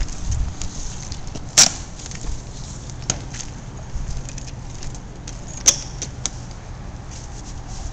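Scattered sharp clicks and knocks over a steady low hum, with two louder ones about a second and a half in and near six seconds.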